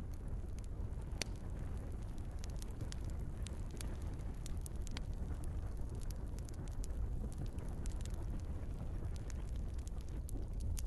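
Wood fire in a fireplace: a steady low rumble of burning logs with frequent irregular crackles and pops, one sharp crack about a second in.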